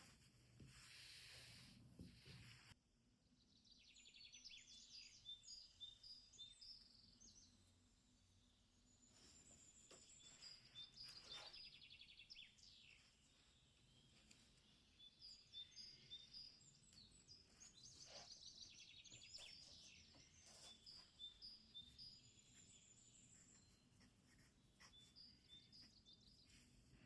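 Faint birdsong: repeated short high chirps and trills, with a few brief soft noises among them. A hiss in the first few seconds cuts off suddenly.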